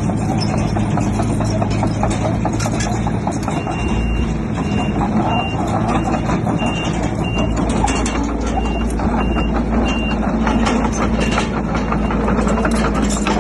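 Heavy diesel earthmoving machinery running, a steady engine drone with metallic clanking and knocking. A backup alarm beeps about twice a second from about four to ten seconds in.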